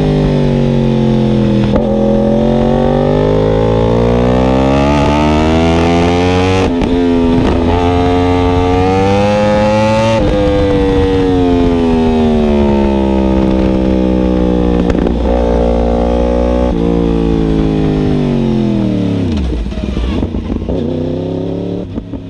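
Yamaha R1M crossplane inline-four through an Akrapovic exhaust with link pipe, riding under load: the revs climb with brief breaks at the gear changes, then fall away as the bike slows with downshifts, dropping low near the end.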